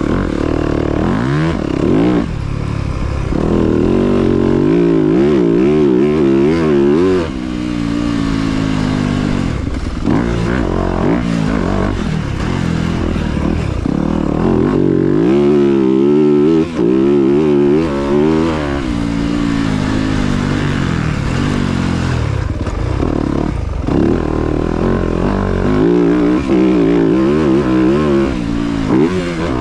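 Motocross dirt bike engine running hard, its pitch rising and falling again and again as it revs and shifts through the gears.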